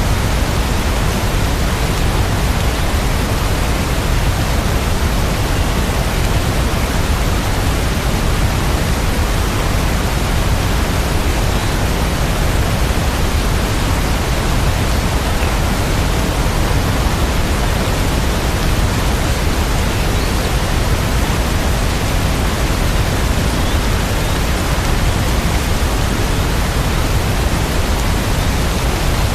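Steady rain sound: a dense, even hiss with no separate drops standing out and no change in level.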